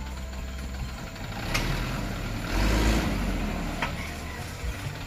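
Dump truck's diesel engine running, swelling louder about halfway through, with a couple of short sharp clicks over the rumble.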